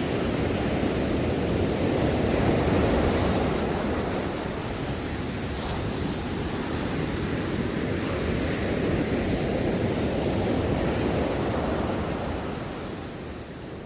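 Ocean waves washing onto a shore, a continuous rush of surf that swells twice and eases off near the end.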